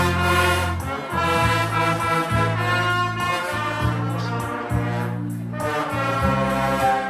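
Band music playing, its bass moving in held notes.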